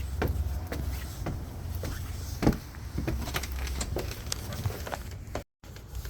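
A series of short clicks and knocks over a steady low rumble, with the loudest knock about two and a half seconds in; the sound cuts out for a moment near the end.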